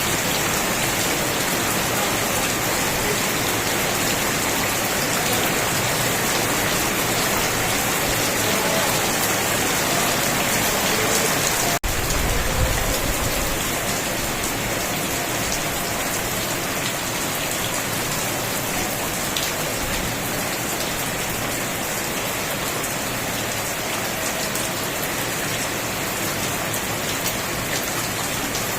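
Steady rain falling on surfaces, an even hiss of drops. About twelve seconds in the sound cuts out for an instant and comes back with a short low rumble.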